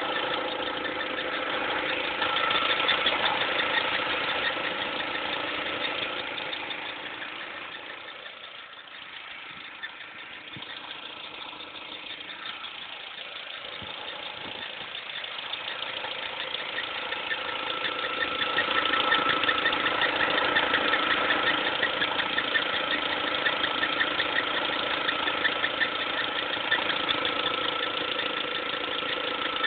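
A cold BMW 116 (E87) engine running, with a steady high squeak and fast chirping from under the hood, which the owner tags as the drive belt. It is the kind of squeal that lasts a couple of minutes from a cold start. It fades somewhat in the middle and comes back louder.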